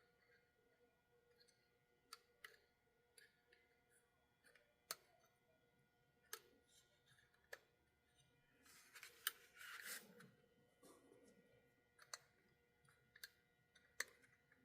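Faint scattered clicks and taps of small tools and tiny model locomotive parts being handled, with a brief rustle a little past the middle.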